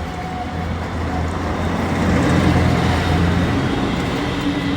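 Road traffic: a vehicle's low engine rumble swelling to a peak a little past halfway, then easing off.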